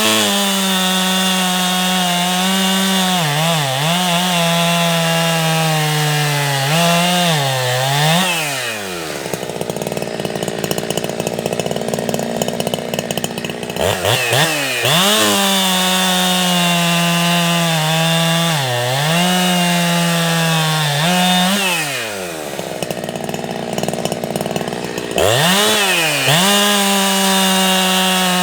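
Ported Jonsered 2165 two-stroke chainsaw run at high revs through cuts in wood, the pitch dipping briefly under load. Twice it drops back to idle for a few seconds and then revs up again.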